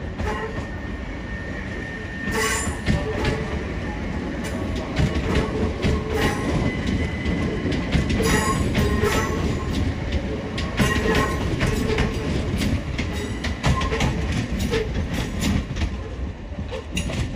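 Southern Class 377 Electrostar electric multiple unit passing close by at low speed, its wheels clacking over and over across rail joints and points, with a thin wheel squeal coming and going on the curve.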